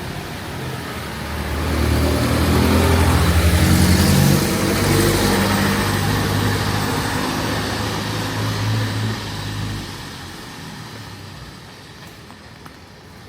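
A motor vehicle driving past close by: its engine note and road noise build to their loudest about four seconds in, then fade away after about ten seconds, leaving quieter street background.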